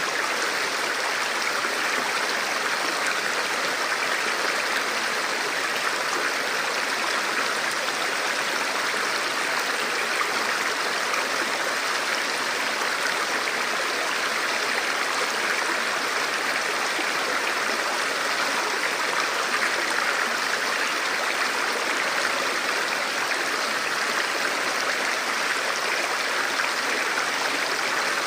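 A forest river or stream flowing steadily over rocks, a continuous rushing with no breaks.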